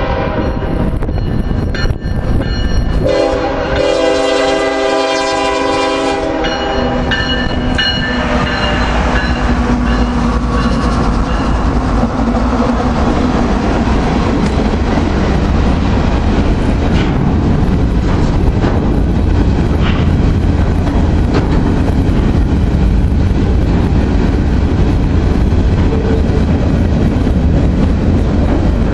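A locomotive horn sounding its chord in two long blasts, the first breaking off about two seconds in and the second ending about six seconds in, as a Norfolk Southern train passes close by. The train's cars then roll past with a steady low rumble and the clickety-clack of wheels on rail joints.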